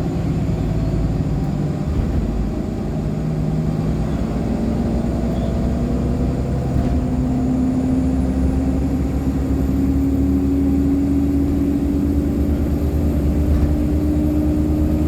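Cabin sound of a 2014 Nova LFSA HEV articulated hybrid bus (Cummins ISL9 diesel, Allison H50 EP hybrid drive) underway and accelerating. Its drive tone climbs slowly in pitch from about halfway, joined by a faint high whine that also rises: the bus's well-known turbo noise.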